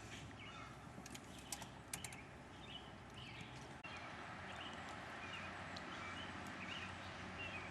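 Faint steady outdoor background noise with scattered short, high bird chirps and a few light clicks.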